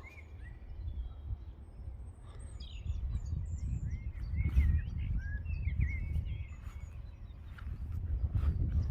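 Songbirds singing: several short chirps and warbling notes, some rising and some falling, over a steady low rumble of wind on the microphone.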